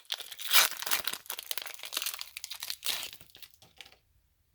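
A foil Pokémon booster pack being torn open and its wrapper crinkled, in a quick run of crackling rips that thin out and stop near the end.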